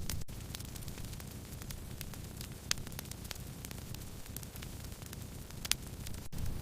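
Burning firewood crackling: a steady low rushing noise with scattered small pops, and two sharper pops about two and a half and five and a half seconds in.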